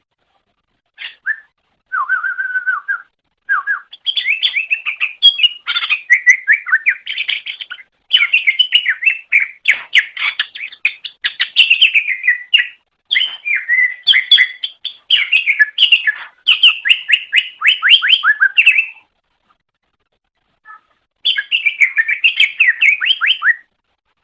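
Cucak ijo (leafbird) singing a fast, varied song of rapid chirps and trills, in phrases broken by short silent gaps: brief bits near the start, a long run from about four seconds to nineteen, and another phrase near the end.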